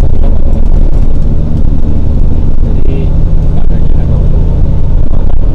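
Suzuki Jimny's engine running as the car drives along, heard from inside the cabin as a loud, steady low drone with road noise. The engine note shifts slightly about halfway through.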